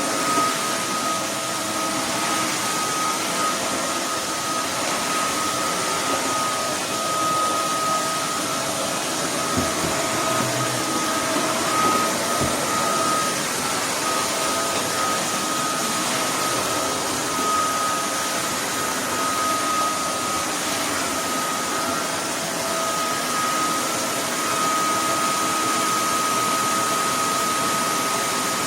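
Roborock F25 wet-dry vacuum cleaner running steadily: an even rushing noise with a constant high whine.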